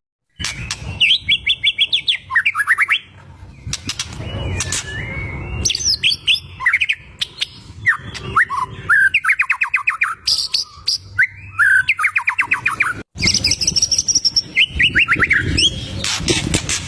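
White-rumped shama (murai batu) singing loudly in fast rattling phrases of rapidly repeated notes, mixed with sharp whistles. The sound cuts out briefly once, about thirteen seconds in.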